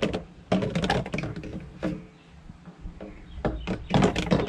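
A quick run of light clicks and knocks as a portable fridge's removable basket is handled. The clicks pause briefly about halfway, then start again.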